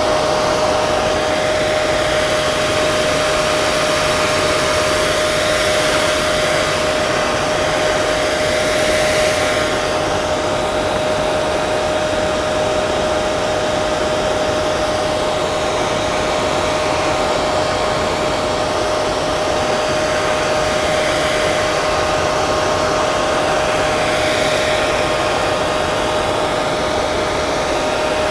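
Hair dryer running steadily: a continuous rush of blown air with a constant motor whine pitched around 600 Hz, its airy hiss swelling and easing slightly every few seconds.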